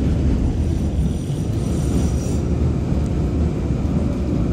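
CTA Brown Line rapid-transit train running on the elevated steel track, heard from inside the car: a steady low rumble, with a faint high squeal about a second in that lasts about a second and a half.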